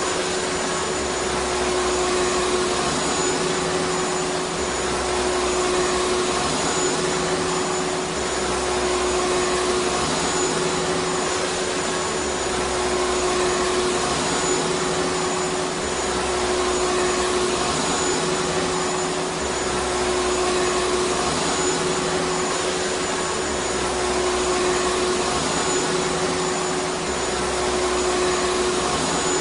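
Vacuum cleaner running steadily: a continuous rushing noise with a steady hum, swelling slightly about every four seconds.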